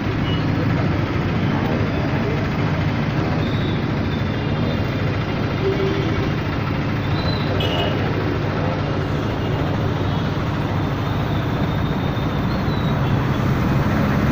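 Dense road traffic in a jam: the engines of several vehicles run steadily together, with faint voices in the background.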